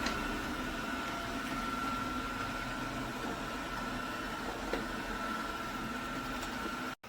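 Lubluelu L20 robot vacuum running, a steady motor whine with a constant high tone, and a couple of faint clicks. The sound cuts off abruptly just before the end.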